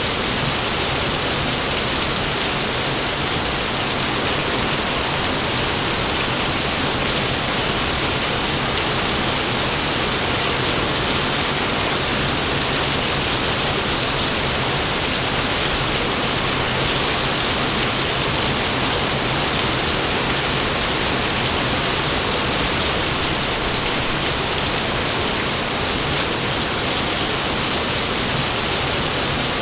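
Heavy rain pouring steadily, an even, unbroken hiss with no thunder.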